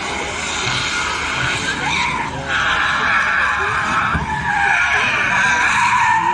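A drift car sliding with its tyres screeching over the sound of its engine, the screech growing louder about two and a half seconds in.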